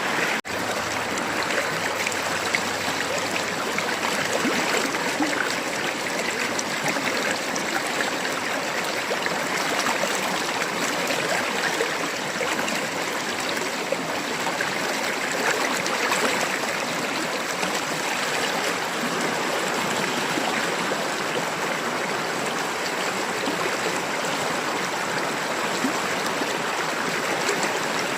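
River water babbling and splashing over stones in a steady, even rush, with a momentary break about half a second in.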